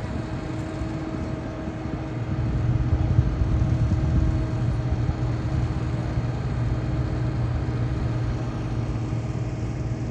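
Jet aircraft engines running on the ground: a steady low rumble with a steady hum over it, growing louder about two seconds in.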